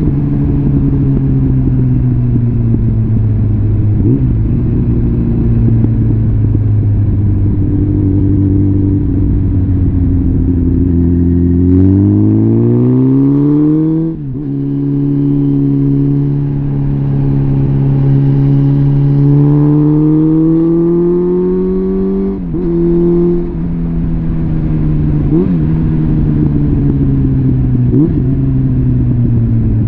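Suzuki GSF650 Bandit's inline-four engine running through a complete Arrow exhaust system while riding. The engine note eases down slowly, then climbs as the bike accelerates about twelve seconds in and drops sharply at a gear change about two seconds later. It rises again and dips briefly at another shift near the end.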